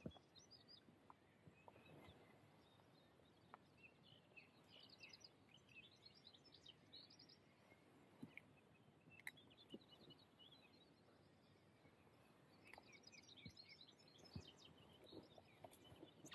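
Near silence with faint bird chirps now and then, in two clusters: one a few seconds in and one near the end.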